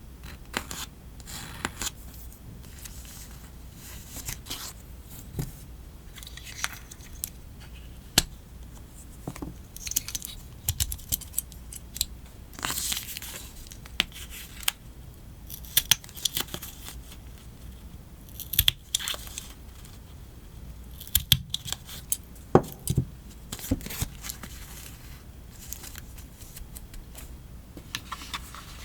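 Close-up paper crafting sounds: stickers and paper peeled and torn away, with irregular sharp scissor snips, taps and crinkles.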